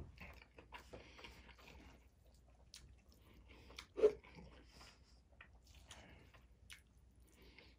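A person chewing and eating mouthfuls of orange chicken and rice, with soft wet mouth smacks and small clicks. One louder short sound comes about four seconds in as a spoonful goes into the mouth.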